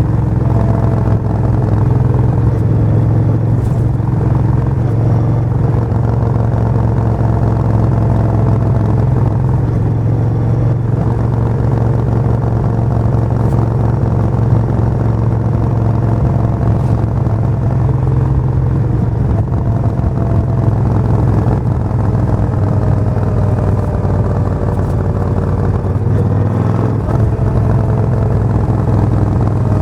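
Suzuki VS1400 Intruder's V-twin engine running steadily at an even, unchanging pace, with a deep exhaust note.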